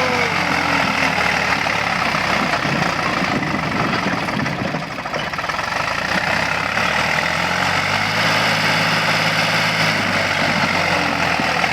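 Swaraj tractor's diesel engine running steadily, its low engine note thinning briefly about halfway through before settling again.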